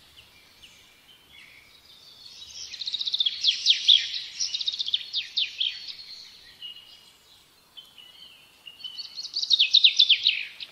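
A songbird singing: a rapid series of descending notes that rises to a loud flourish a couple of seconds in and lasts about three seconds, softer short notes after it, then a second loud song near the end.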